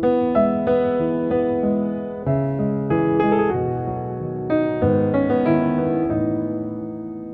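Gentle solo piano music: single notes and chords struck one after another, the last chord left ringing and fading near the end.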